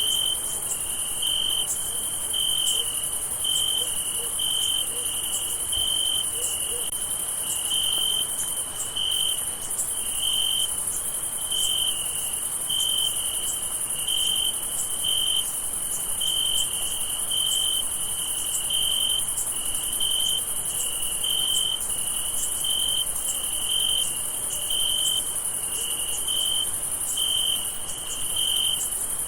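Crickets chirping: short chirps repeating about once a second, over a steady high-pitched insect trill.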